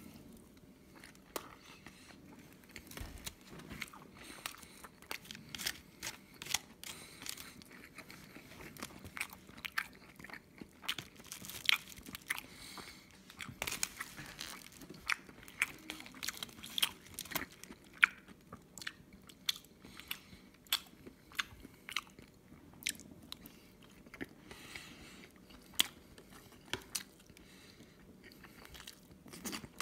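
Close-miked chewing and wet mouth sounds of someone eating a rice burger with kimchi and fried egg, with many irregular sharp clicks.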